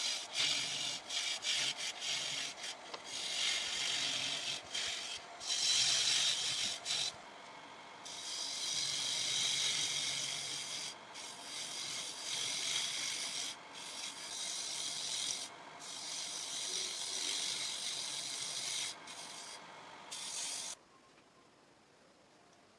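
Sandpaper rubbing on a turned wooden pot: a hissy scraping in repeated strokes with short breaks, which stops abruptly near the end.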